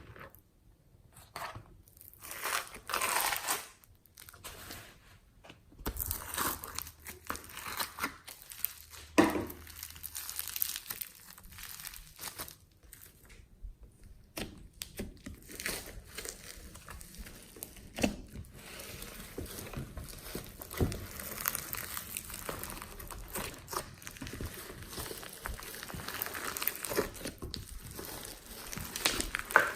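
Hands squishing and mixing slime: irregular small crackles, clicks and sticky pops, a few separate bursts at first, then a dense, continuous run.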